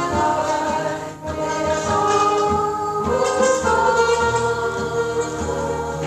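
A hymn sung by several voices with instrumental accompaniment, the notes long and held, with a short break in the singing about a second in.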